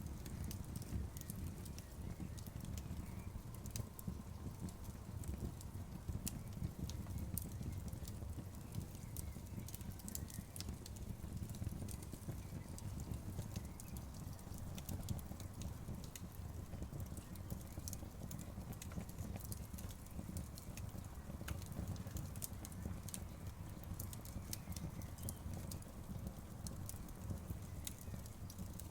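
Bonfire crackling: frequent sharp, irregular pops and snaps over a steady low rumble of the burning flames.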